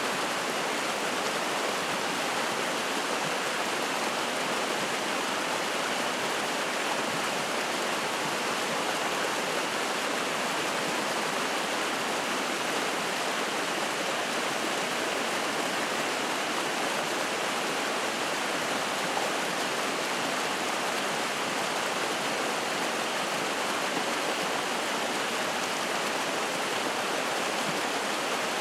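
Spring-fed mountain stream flowing: a steady, even rush of water.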